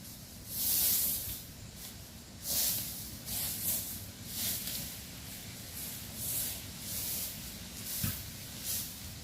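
Repeated rustling swishes of something brushing through field vegetation, roughly one a second with irregular gaps, and one soft low thump about eight seconds in.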